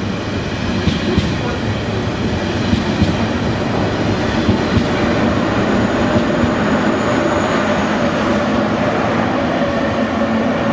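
KTX high-speed train running past the platform: a loud, steady rush and rumble of the carriages, with sharp wheel clicks over the rails in the first few seconds. A steady hum grows in the second half as the power car at the end of the train approaches.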